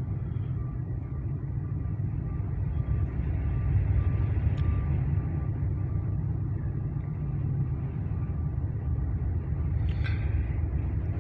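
Freight train of grain hopper cars rolling past with a steady low rumble, with a faint, broken high tone above it.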